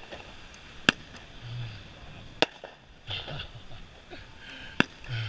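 Fireworks going off: three sharp, separate bangs about a second and a half apart, over faint background voices.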